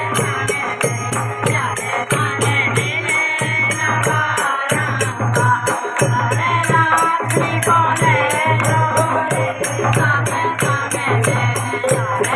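Women singing a song, with a rattling percussion keeping an even beat of about three to four strokes a second.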